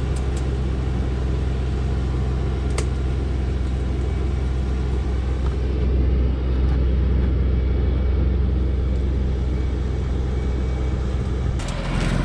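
Heavily loaded timber truck's engine running with a steady low drone, with one sharp knock about three seconds in. Near the end the drone gives way to rougher noise with sharp cracks.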